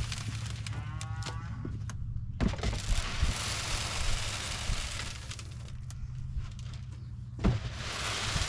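A cow moos briefly about a second in, over a steady low engine hum and wind-like hiss.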